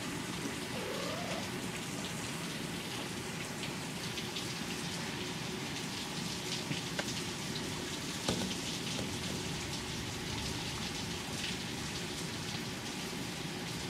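Steady rain falling, with a few louder drops ticking now and then.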